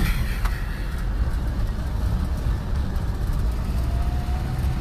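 A car on the move: a steady low rumble of engine and road noise, with a sharp click right at the start.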